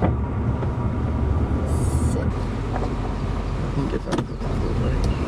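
Truck driving with a steady low engine and road rumble, and a couple of short clicks about four seconds in.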